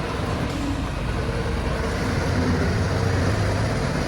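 Engine of heavy construction machinery running steadily with a low drone, a little louder from about halfway in.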